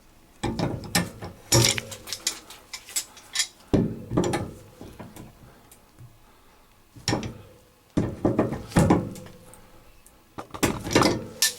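Wire closet shelf hardware being handled and fastened to the wall: clusters of sharp metallic clicks, rattles and knocks in four bursts.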